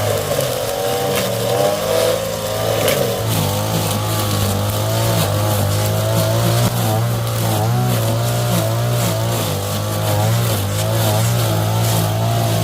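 An engine running steadily, with a low hum and a pitch that wavers up and down.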